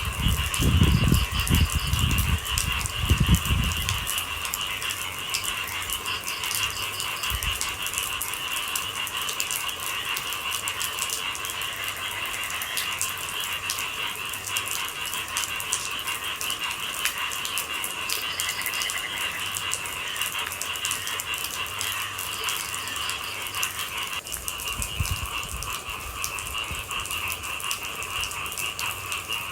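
Rain falling with a steady, dense trilling chorus of night animals. Low rumbles come in during the first few seconds and again near the end.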